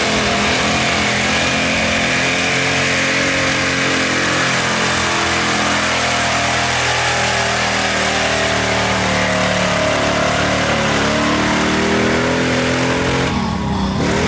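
Mud-racing truck's big-block engine running hard under heavy throttle, its pitch shifting up and down, easing off about a second before the end.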